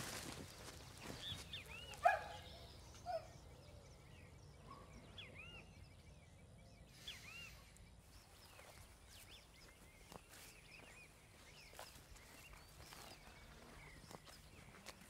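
Quiet forest ambience with small birds chirping, short arched chirps repeating through, and a louder short call about two seconds in. Scattered faint ticks and a brief rustle near the middle.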